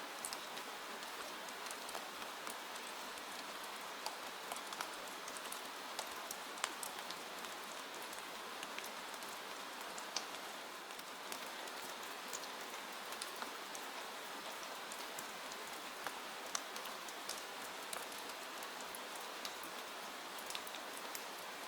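Steady rain, an even hiss, with irregular sharp ticks and pops scattered through it.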